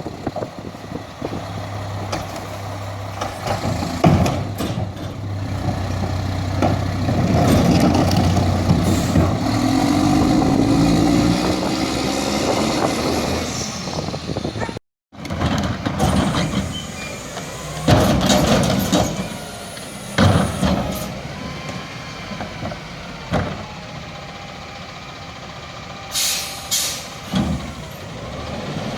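Garbage truck at work: the engine runs and revs up while the packer cycles, with metallic clanks and a few short air-brake hisses near the end. The sound breaks off sharply about halfway.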